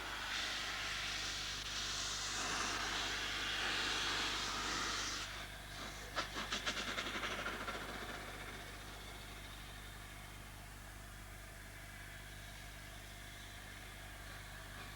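A steam-hauled express train passing: a loud rushing hiss for about five seconds, then a quick run of sharp clacks from the wheels, fading to a quieter steady rumble.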